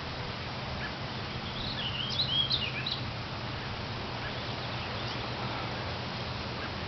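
A wild songbird sings a short phrase of quick rising and falling chirps about two seconds in, over a steady low background hum.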